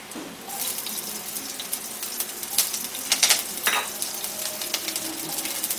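Chopped green chillies hitting hot mustard oil in an aluminium kadai and sizzling, with sharp spitting crackles. The sizzle starts about half a second in.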